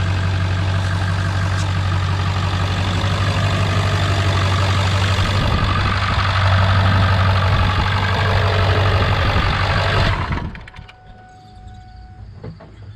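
2000 Ford F-250's 7.3 litre V8 turbo diesel idling steadily, then shut off about ten seconds in, leaving a quiet background.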